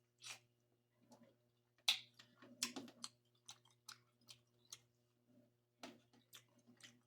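Close-miked chewing: a person eating, with irregular soft mouth clicks and smacks, two of them louder about two and three seconds in.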